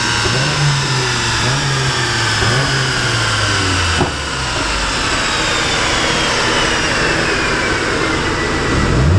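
Turbocharged Hyundai i30 engine running under load, its note rising and falling with revs. About four seconds in there is a sharp crack, the engine note drops, and a high whistle falls slowly in pitch over the following seconds, from the turbo spooling down. Near the end the revs climb again.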